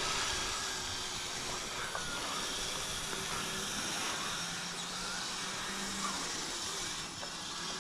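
Kyosho Blizzard RC tracked snow vehicle on full metal tracks driving, its dual Traxxas 380 electric motors running steadily with a faint whine over an even hiss.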